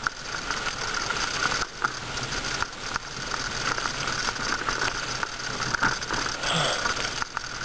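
Bicycle freewheel ticking rapidly as the bike coasts, over a steady hiss of moving air and road noise.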